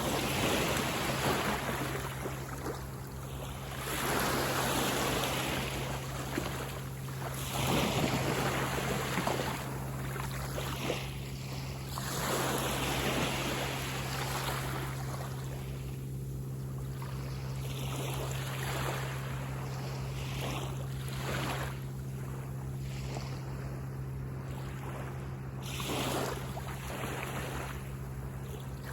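Ocean waves breaking and washing up on a sandy beach, swelling and falling back every few seconds, with a steady low hum under them.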